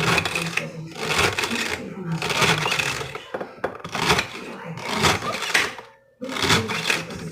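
Kitchen knife cutting through celery stalks on a cutting board, crisp crunching and snapping cuts about once a second.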